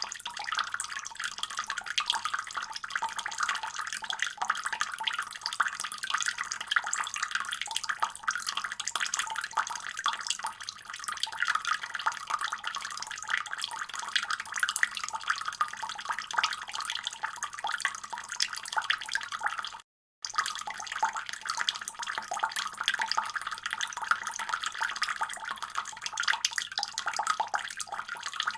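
Water running steadily from a faucet and splashing. It cuts out for a split second about two-thirds of the way through.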